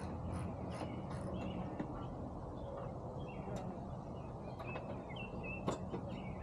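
Quiet outdoor background with a steady low rumble, a few faint bird chirps, and one sharp click near the end.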